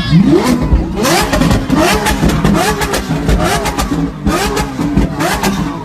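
Car engine revved hard again and again, each rev a quick rise in pitch, with sharp cracks and pops from the exhaust between the revs.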